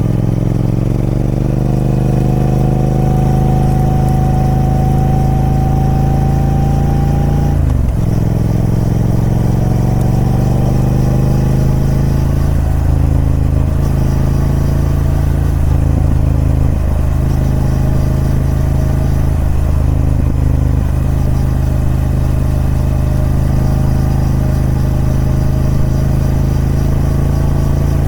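Triumph Speed Twin 1200's parallel-twin engine on its stock exhaust, pulling with slowly rising revs, a sudden drop in revs about eight seconds in as it shifts up, then rising again and running fairly steadily with small throttle changes.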